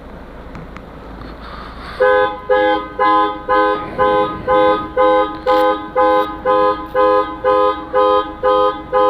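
Car alarm sounding through the car's horn: a run of regular, evenly spaced honks, just under two a second, starting about two seconds in.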